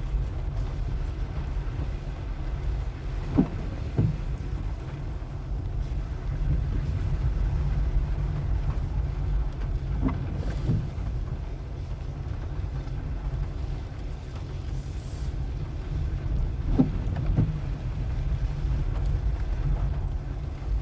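Car driving: a steady low rumble of engine and tyres. Three times, evenly spaced about seven seconds apart, comes a pair of short knocks about half a second apart.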